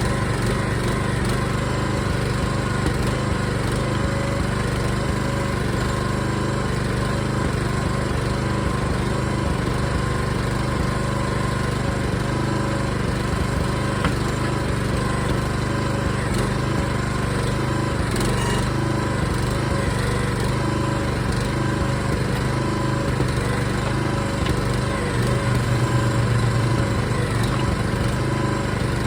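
Small gasoline engine of a compact backhoe running steadily, with a brief rise in level about two-thirds of the way through.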